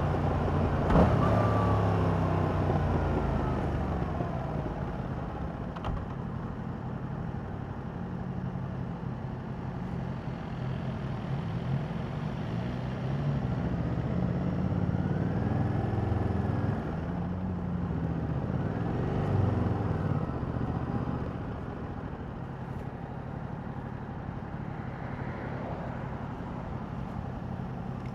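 2021 Yamaha MT-07's 689 cc parallel-twin engine on its original exhaust, running at low revs with a steady low note. Its pitch rises and falls a few times, and the sound settles quieter after about four seconds.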